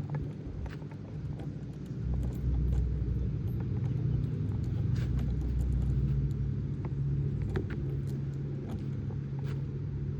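Wind rumbling on the microphone, louder from about two seconds in, with a few light clinks of the metal swing chains.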